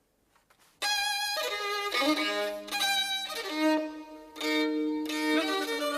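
A violin made by Francesco Gobetti played with the bow: a phrase of sustained notes with vibrato, starting about a second in. The listener judges its tone metallic.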